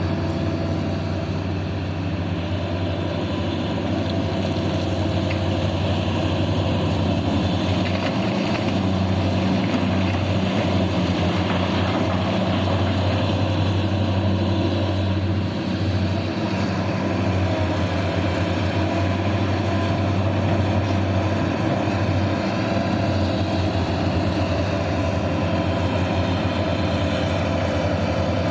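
Heavy mining machinery's engine running steadily with a low, even hum.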